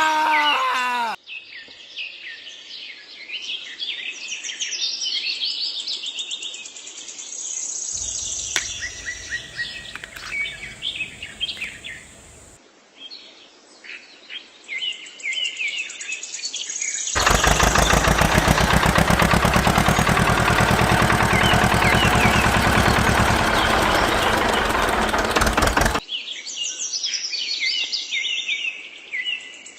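Birds chirping and singing in several stretches that start and stop abruptly. For about nine seconds past the middle, a loud, steady, fast-pulsing mechanical noise covers them.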